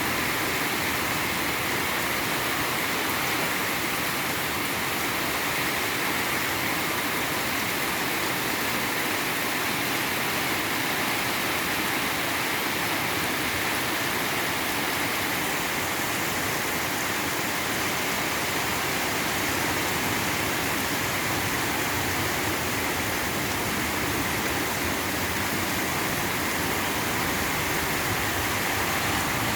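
Steady rain falling: an even, unbroken hiss of rain with no thunder or single drops standing out.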